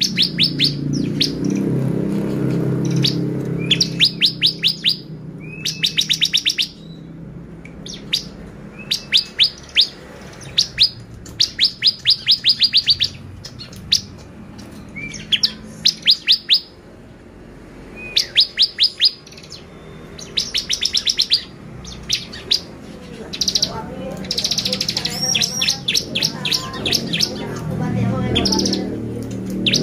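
Bar-winged prinia (ciblek) song: rapid trills of sharp, high chips, about eight a second, delivered in short bursts of about a second with brief gaps between them.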